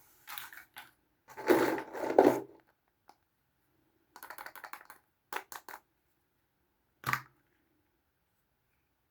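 Small Kinder Surprise toys and their packaging handled up close: bursts of crinkling rustle, loudest about a second and a half in, then a few quick light clicks and one sharp click about seven seconds in.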